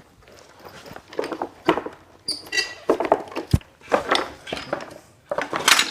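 Fibre cement guillotine shears cutting through a 10mm fibre cement weatherboard in several strokes, each one a burst of cutting noise. The blades give a short squeak about two and a half seconds in.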